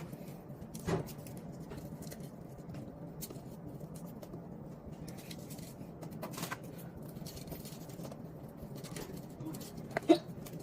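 Faint, scattered clicks and light taps of kitchen utensils and containers being handled, with a sharper click about a second in and the loudest one near the end.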